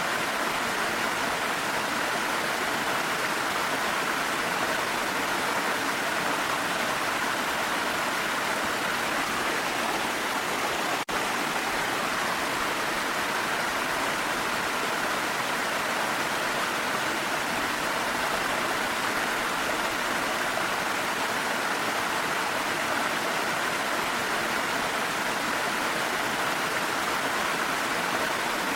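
Waterfall rushing steadily, mixed with the hiss of rain. There is a momentary dropout about eleven seconds in.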